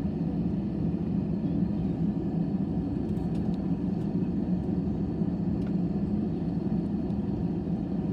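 Steady low drone of a jet airliner's engines and airflow, heard from inside the passenger cabin, with a faint high whine above it.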